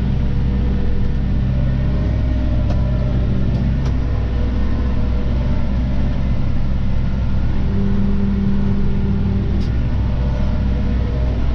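Claas Arion 530 tractor running steadily under load while mowing grass, a constant deep engine drone with a few faint ticks.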